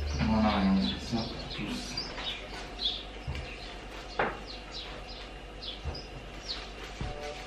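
Small birds chirping: short high calls that glide in pitch, coming singly and in quick runs. A few light knocks sound among them, and background music fades out at the very start.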